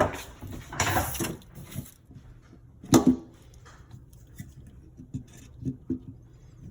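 Garbage disposal mounting parts being handled: rustling and clattering for about two seconds, one sharp knock about three seconds in, then a few light taps.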